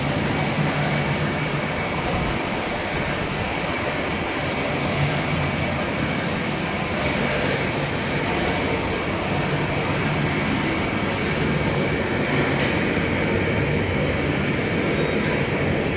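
Vertical turning lathe running steadily, a constant machine drone with a low hum and a faint high whine held throughout.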